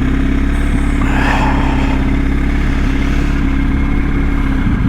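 BMW R1250's boxer-twin engine running steadily as the motorcycle is ridden along, with a short hiss of passing noise about a second in and a change in the engine note near the end.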